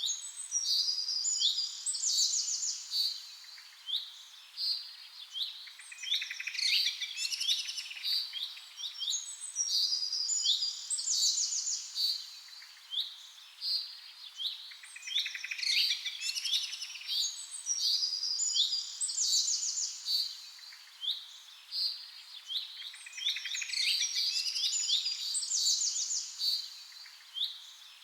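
Several songbirds chirping and singing together: a dense chorus of short, quick chirps and rapid trills that swells and eases every eight or nine seconds.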